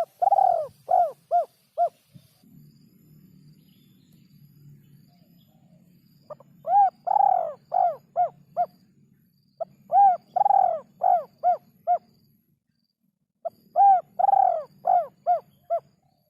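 Spotted dove (derkuku) cooing in repeated phrases of several short notes, four phrases with pauses of a few seconds between them, over a faint low hum.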